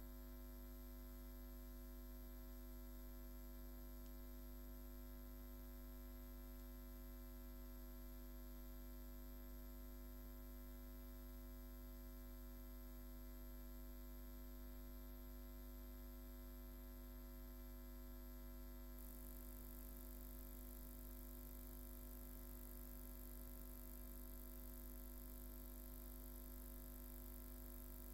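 Steady low electrical mains hum with faint hiss, and no speech. About two-thirds of the way through, the high hiss gets a little louder.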